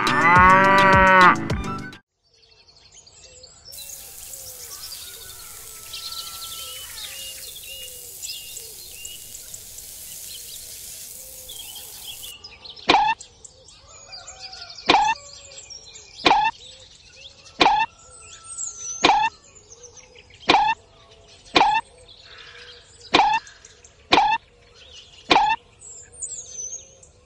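A short musical jingle with a rising and falling chime, then birdsong in the background. From about halfway, a miniature hoe strikes sand in a sharp knock about once every second and a quarter, about ten times, one for each planting hole dug.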